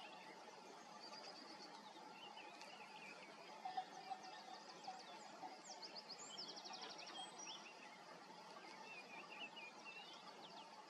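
Near silence with faint songbird calls: scattered scratchy chirps, a few sharp ones about four seconds in, and a quick high trill around seven seconds, over a steady low hiss.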